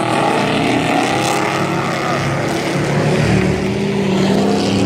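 Race trucks' engines running hard at speed, several at once. A stronger, steady engine note comes in about three seconds in.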